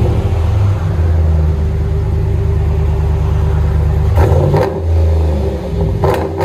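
Ram 1500's 5.7 L HEMI V8 idling through a single 3.5-inch pipe, a Black Widow Race Venom muffler and the stock resonators: a deep, steady exhaust rumble with two brief fuller moments about four and six seconds in.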